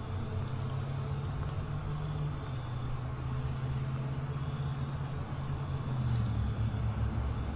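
Steady low drone of a motor vehicle's engine, its pitch stepping down slightly a couple of times.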